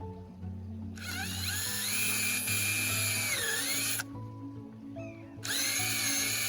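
Power drill running in two bursts, about three seconds and then a second and a half long, with a high motor whine. In the first burst the pitch sags briefly as the bit bites, then recovers.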